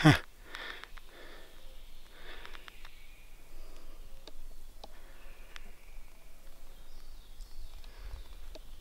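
Faint birds calling in a beech wood: a few short chips and brief thin song phrases.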